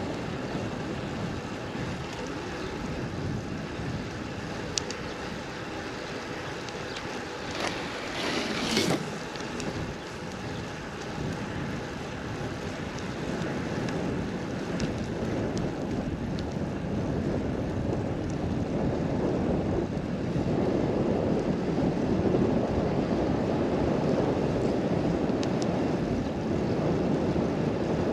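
Seaside wind and surf: a steady rush of noise, with wind buffeting the microphone. A brief louder rush comes about eight seconds in, and the noise grows louder from about twenty seconds on.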